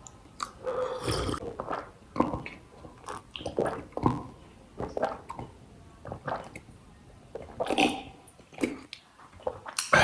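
A person chewing and biting food close to the microphone, with irregular short mouth sounds and small clicks.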